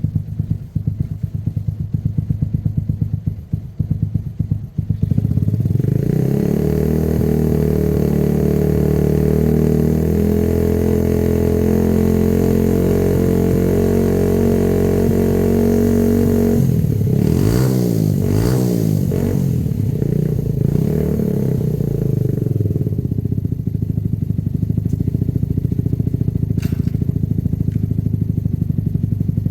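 Herald motorcycle engine idling with an even pulsing beat, then revved up about five seconds in and held at a higher steady speed. Around two-thirds of the way through it is revved up and down several times, then drops back to idle.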